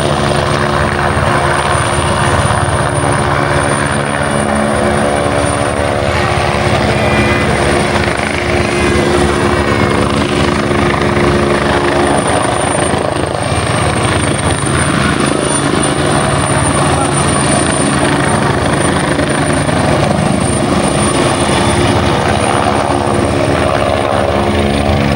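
Helicopter running steadily: a continuous rotor beat and engine hum, with a thin high turbine whine held over it.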